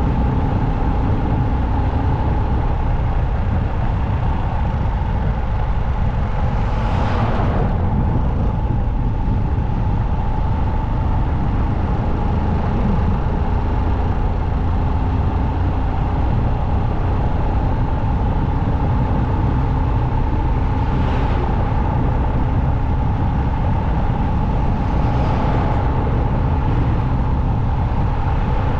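Motorcycle riding at highway speed: a steady rush of wind on the microphone over the engine's drone, with three brief whooshes of passing traffic, one about a quarter of the way in and two more in the last third.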